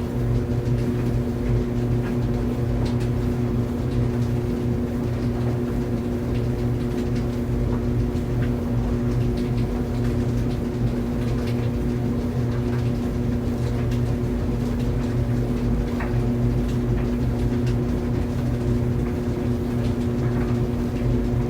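Tumble clothes dryer running steadily: an even motor hum with the drum turning, and faint scattered ticks here and there.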